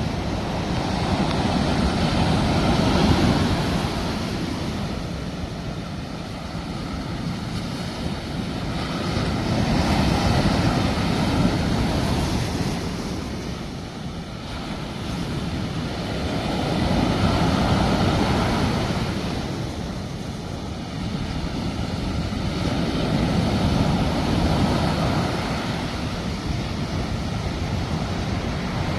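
Sea waves washing onto the shore, a steady rushing surf that swells and ebbs about every seven seconds.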